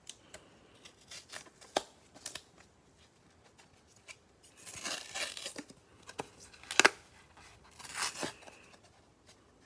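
Cardboard trading-card hanger box being torn open and handled: scattered clicks, with stretches of tearing and rustling about five and eight seconds in. The loudest sound is a sharp snap a little before seven seconds in.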